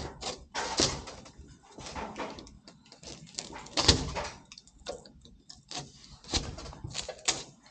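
E-board foam insulation panels being cut and handled: an irregular run of scrapes, squeaks and knocks, the loudest knock about four seconds in.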